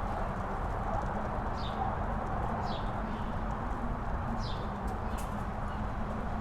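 Steady wind blowing across the microphone on a mountain top. A bird calls three short, high notes that fall in pitch.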